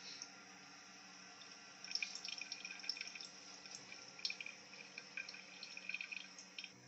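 Water trickling and dripping in a dual-flush toilet cistern, a quick run of small splashes that starts about two seconds in, over a faint steady hum.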